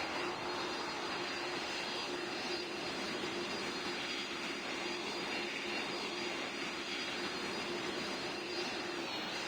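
Airbus A220 jet engines, Pratt & Whitney PW1500G geared turbofans, running steadily: an even rushing noise with a constant low drone and a faint high whine.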